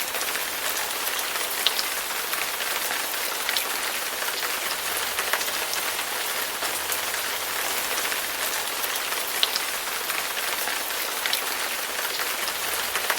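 Steady rain falling and splashing on hard surfaces, with sharp individual drips landing close by every second or two.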